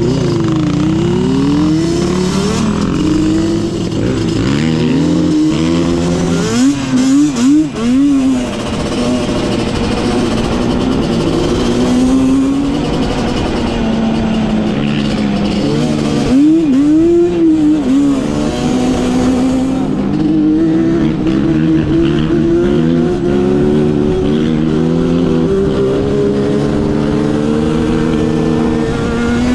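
Off-road vehicle engine running on a trail, its pitch rising and falling with the throttle. There are quick revs about seven seconds in and again around sixteen seconds.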